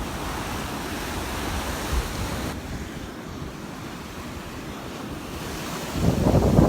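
Gulf surf washing onto the beach with wind buffeting the microphone, getting louder and rougher near the end.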